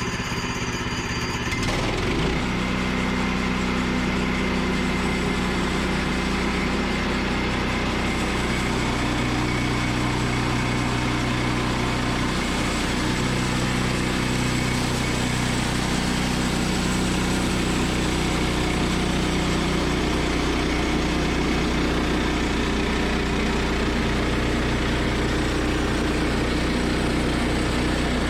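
Woodland Mills sawmill engine running steadily. Its sound changes abruptly about two seconds in, then holds with small shifts in pitch.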